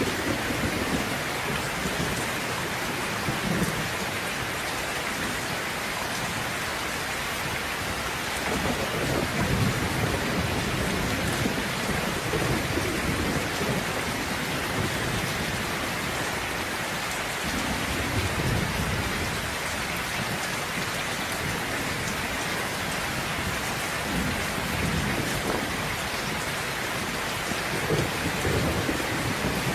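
Steady rain falling, with several low rolling rumbles of thunder rising and fading over it.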